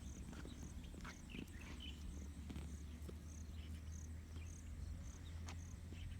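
An insect chirping in a steady rhythm, a short high pulse about twice a second, with a few brief bird chirps in the first couple of seconds and a low rumble underneath.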